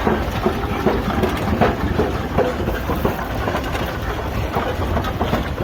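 Wood fire burning in a steam traction engine's firebox, with many irregular crackles and pops over a steady low rumble.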